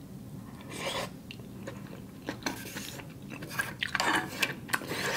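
Close-miked chewing of a mouthful of tteokbokki (chewy rice cakes in sauce), in wet, irregular mouth sounds, with a few light clicks as chopsticks pick more food from the pot.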